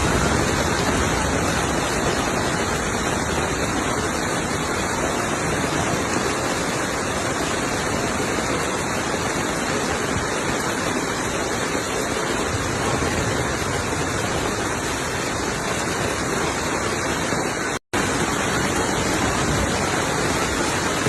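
Steady rushing of flowing floodwater, cut off for an instant near the end.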